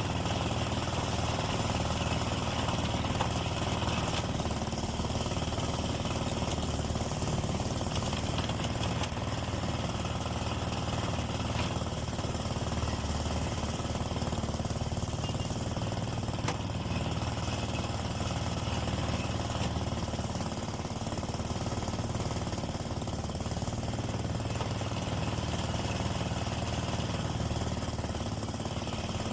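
Motorised sugarcane juice crusher running steadily, its motor and rollers making a continuous low mechanical drone as cane is pressed for juice.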